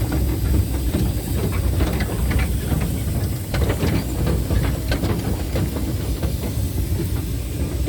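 Miniature ride-on steam locomotive running along its track: a steady low rumble with steam hiss and many sharp clicks and knocks from the wheels on the rails.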